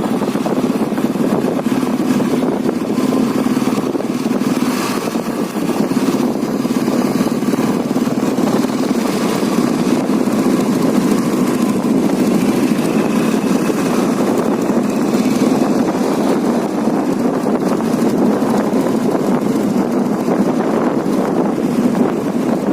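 Royal Enfield Bullet motorcycle's single-cylinder engine running steadily.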